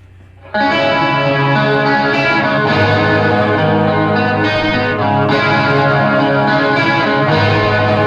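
Electric guitars played through effects pedals, with distortion and chorus, start a rock song abruptly about half a second in, over a steady amplifier hum. They keep up sustained ringing chords, with a bass line underneath.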